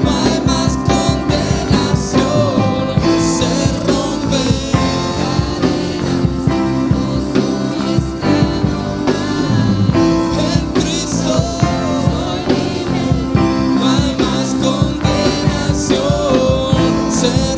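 A worship band playing, with singing over a steady beat.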